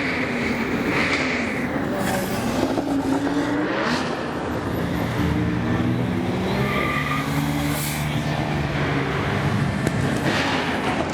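Car engines with loud exhausts revving as cars pull away, the pitch rising and falling in the first few seconds, then a steadier engine drone from another car rolling past.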